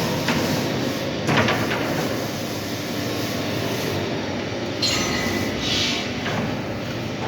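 Steady rumbling noise of steel-tank fabrication work, broken by a few sharp metal knocks, about four.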